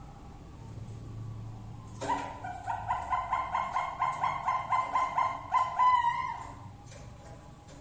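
Zebra dove (perkutut bangkok) calling: a rapid run of staccato cooing notes, about four a second, starting about two seconds in and lasting about four seconds.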